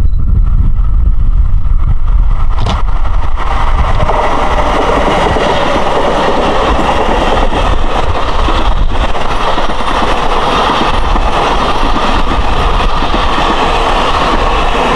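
Long Island Rail Road M3 electric multiple-unit train of eight cars passing at speed: a low rumble at first, then from about three seconds in the steady rush of wheels on rails as the cars go by.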